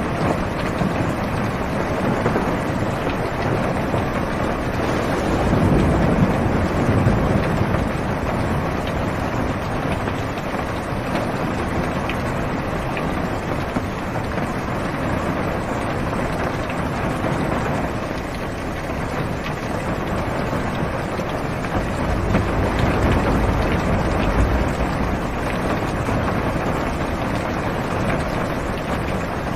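Heavy rain falling on a car, heard from inside the cabin as a steady wash of noise, with low rolls of thunder swelling about five seconds in and again past twenty seconds.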